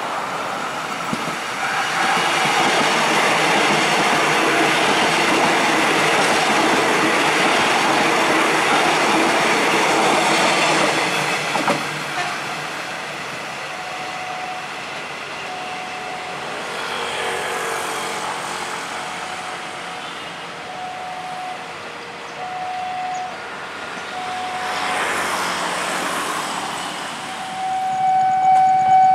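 Airport rail link electric multiple unit running past on the rails for about the first eleven seconds, a loud steady rush of wheels and motors that then dies away. Near the end a level crossing warning bell starts, a steady ringing tone pulsing about three times a second.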